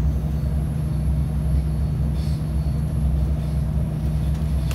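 Passenger train running, heard from inside the carriage: a steady low rumble with a faint, steady high whine above it.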